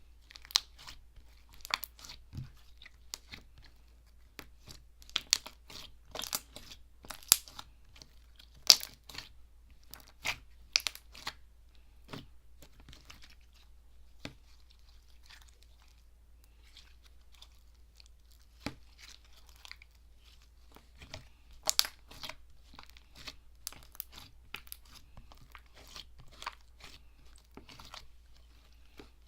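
Slime being played with, giving irregular crunchy clicks and crackles, denser near the start and again past the middle, with a sparser stretch between.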